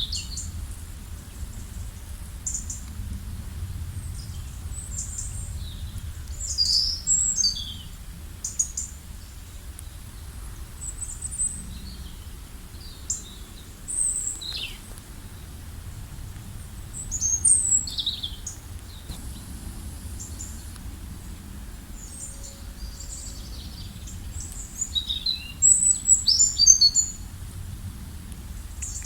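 Wild birds chirping in short, high calls and brief song phrases, scattered and coming in clusters, loudest about two thirds of the way through and near the end, over a steady low background rumble.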